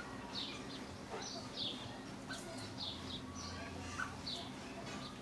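New Holland honeyeaters calling: short, high chirps that each drop in pitch, repeated about twice a second.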